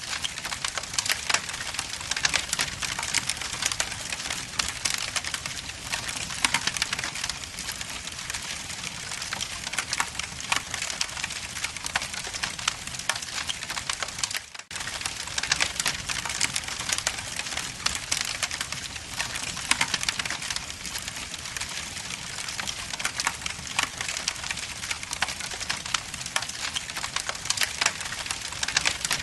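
Log fire burning in a fireplace, crackling steadily with many sharp snaps and pops. The sound cuts out for a moment about halfway through.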